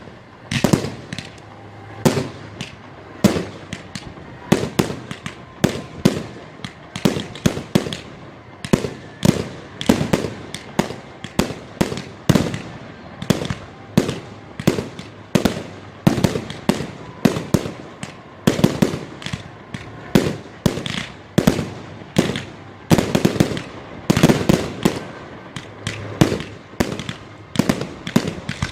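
Fireworks display going off: a continuous string of sharp bangs and crackles, several a second, with no pause.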